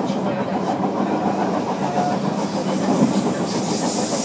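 Running noise inside a JR Kyushu 305 series electric multiple unit, heard from motor car MoHa 305-105: a steady rumble of wheels on rail and the car's traction equipment, which uses permanent-magnet synchronous motors under inverter control. The noise grows slightly louder and hissier in the last second or so.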